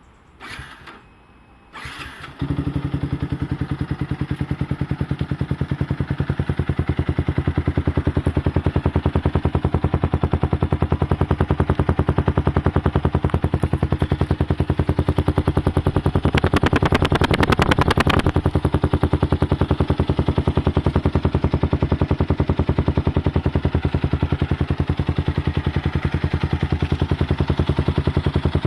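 Yamaha FZ150's single-cylinder engine breathing through a Yoshimura aftermarket exhaust: two short cranks, then it catches about two seconds in and idles steadily. Past the middle there is a short louder, rougher stretch before it settles back to idle.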